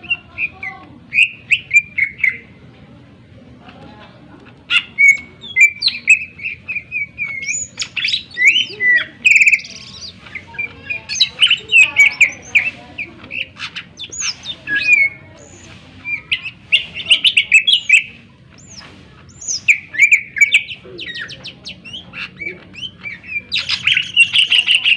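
Cucak ijo (green leafbird) singing loudly: a fast, varied run of sharp chirps, trills and whistled notes in bursts, broken by a few short pauses.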